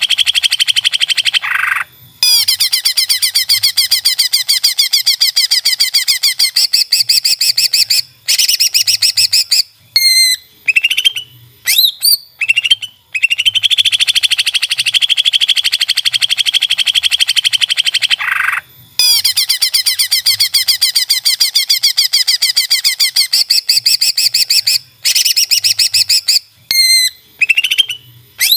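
Greater green leafbird (cucak ijo) singing: long, very fast buzzy trills alternating with short sharp rising whistled notes. The same run of phrases comes round again about halfway through.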